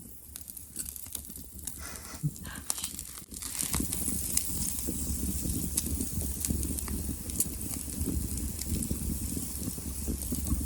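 Wood fire crackling, with sharp irregular pops. About four seconds in, a louder steady low rushing sound joins it.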